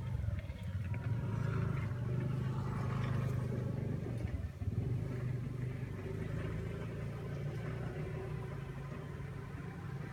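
Tractor engine running steadily with a low drone, dipping briefly about four and a half seconds in.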